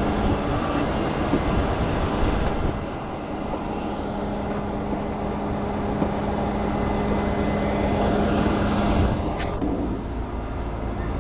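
Heavy truck engine running steadily with a constant drone, and a brief hiss of air about nine and a half seconds in.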